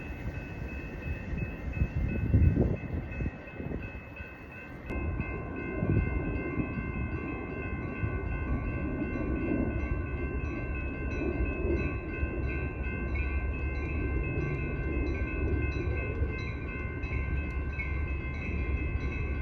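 A train passing, its wheels rumbling low on the rails, while a grade-crossing bell rings in a regular rhythm of about two strikes a second. A louder low surge comes about two seconds in.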